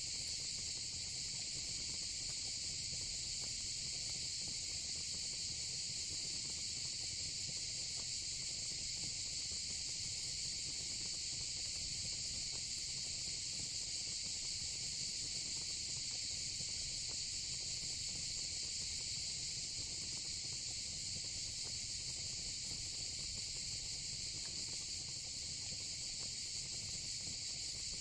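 Steady chorus of insects: a continuous high-pitched trill that holds at an even level without a break.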